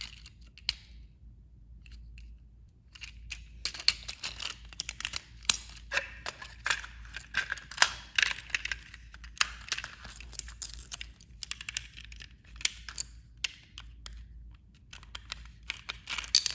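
Hands handling a small plastic battery-powered toy train: irregular clicks, scrapes and rattles of plastic, with a quiet stretch at first.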